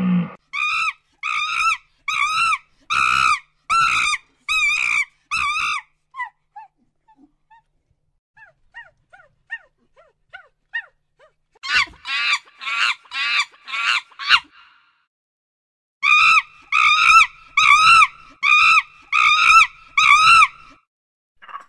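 An animal giving short, high-pitched yelping calls, about two a second, in three bouts, with fainter short chirps between the first two bouts.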